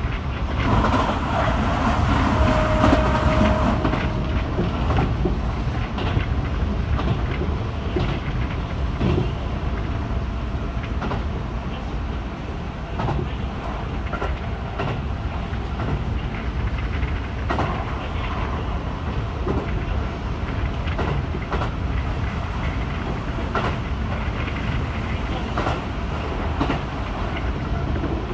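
Running noise of a Keihan 3000 series electric train heard from on board: a steady rumble of wheels on rail, with scattered clicks as the wheels pass rail joints. A short high tone sounds about two seconds in.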